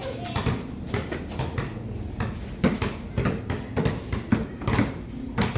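Basketballs bouncing on a court: a run of irregular, overlapping thuds, several a second, as more than one ball is dribbled at once.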